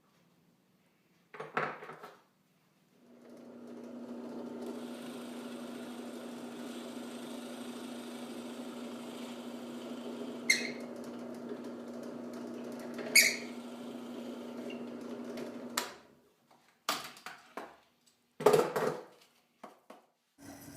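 Drill press motor starting up and running with a steady hum for about thirteen seconds while a 2 1/8-inch bit bores an entrance hole through 3/4-inch plywood, with two brief sharp bursts partway through, then cutting off. A knock comes before it starts and a few knocks come after it stops.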